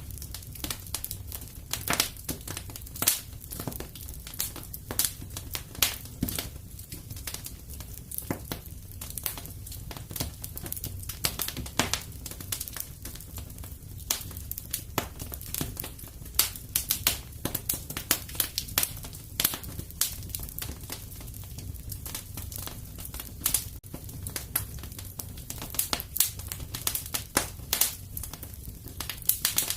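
Fireplace fire crackling: a steady run of irregular snaps and pops over a low, even rumble.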